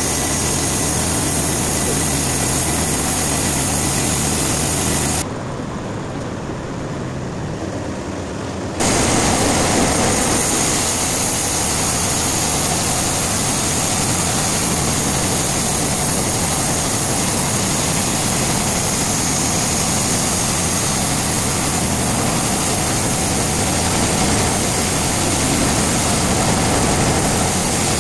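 Heavy sawmill machinery running steadily, a loud, dense engine-and-saw noise with a low hum underneath. From about five to nine seconds in it turns quieter and duller, then returns at full strength.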